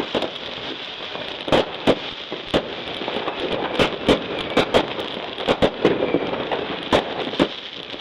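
Aerial fireworks and firecrackers going off: a dozen or so sharp bangs at irregular intervals, sometimes two close together, over a steady background of crackle and distant pops.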